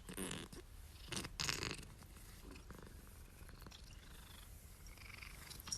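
Domestic cat purring faintly, in two soft breathy pulses within the first two seconds, then very quiet.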